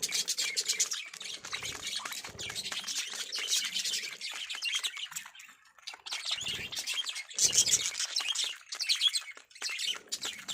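A flock of budgerigars chattering, with fast, overlapping chirps and squawks and a brief lull about halfway through.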